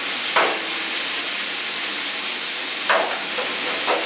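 Diced chicken, dried chili peppers and peppercorns sizzling steadily in hot oil in a frying pan, stirred with a wooden spatula, with three short louder scrapes of the spatula against the pan.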